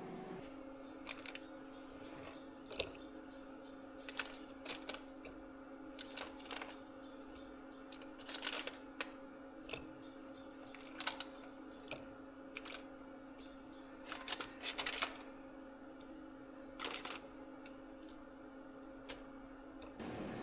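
Scattered light clicks and taps, some in quick little clusters, over a steady low electrical hum that stops shortly before the end.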